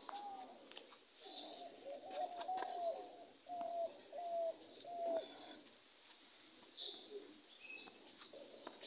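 Birds calling in the open air: a run of about seven short, slightly falling hoots in steady succession, with high thin chirps from smaller birds throughout and a few more near the end.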